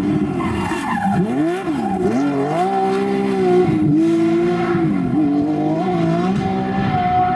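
Rally car engine at full throttle: the pitch drops and climbs several times in the first couple of seconds on quick lifts and gear changes, then holds at steady high revs with one short dip.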